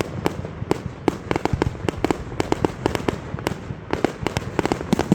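Fireworks display going off: a dense, irregular stream of sharp bangs and crackling pops, several a second, over a continuous low rumble of bursting shells.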